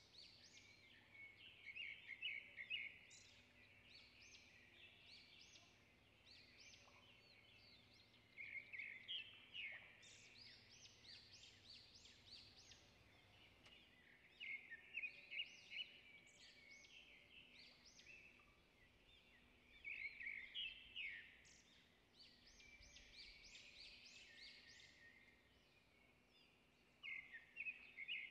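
Faint bird-like chirping in short clusters, one every five or six seconds, over a quiet background.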